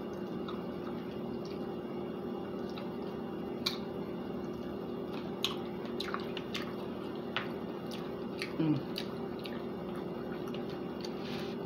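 Close-up eating sounds of chicken wings being chewed: scattered wet smacks and mouth clicks over a steady low hum, with a brief falling voiced sound like a hum about eight and a half seconds in.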